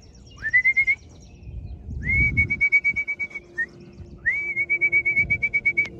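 A whistle blown in three trilled calls, each sliding up into a steady high warbling trill, the shortest first and the last longest: the fancier's whistle calling homing pigeons back from a race down into the loft.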